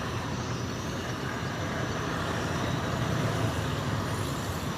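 Pompong motorboat engines running steadily with a low hum, growing slightly louder about three seconds in.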